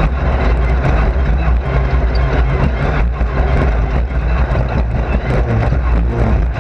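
Race car engine running steadily under load, heard from inside the car's cabin, with frequent knocks and rattles over it.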